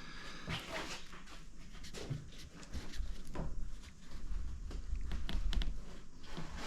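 Scattered light clicks and small scrapes of hand tools and metal parts on a Stromberg carburettor being taken apart, with a low rumble of handling noise from about three seconds in.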